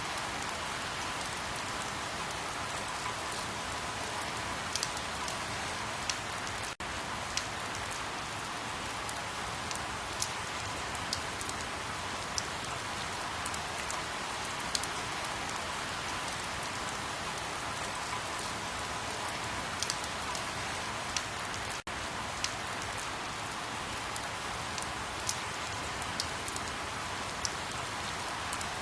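Steady rain, with scattered sharp ticks of single drops landing. It drops out for an instant twice.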